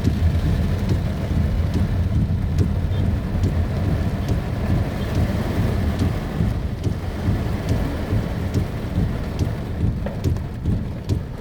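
Heavy rain pouring in strong wind: a dense, steady low rumble with scattered sharp ticks of drops striking nearby.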